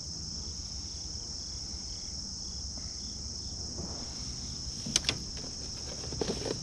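Steady, high-pitched chorus of crickets. Two sharp clicks come about five seconds in, and light rattling clicks follow near the end.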